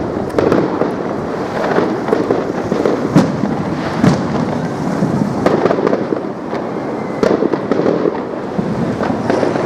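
Fireworks going off repeatedly: a string of sharp bangs at irregular intervals, roughly one every second or so, over continuous crackling and popping.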